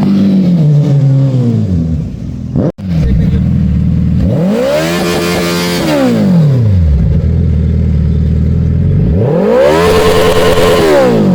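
Motorcycle engine revved hard twice, each time the pitch climbing steeply and then falling back, after an engine note dying away near the start. Ear-splittingly loud.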